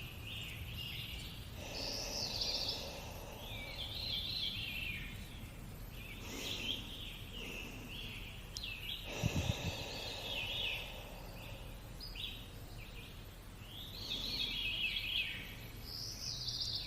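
Songbirds singing, with repeated high chirping trills overlapping throughout. A short low thump comes about nine seconds in.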